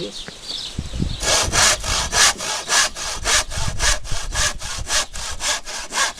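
Hand saw cutting through wood in quick, even back-and-forth strokes, about three to four a second, starting about a second in.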